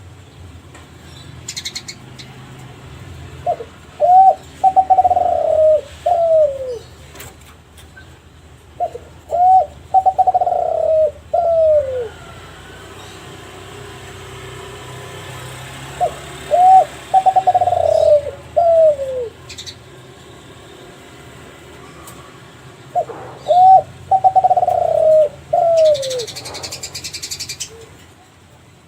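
Kelantan spotted dove (derkuku) cooing, its lure song for other doves: four phrases spaced several seconds apart, each a quick pair of short notes, then a long note and falling notes at the end. A short noisy burst follows near the end.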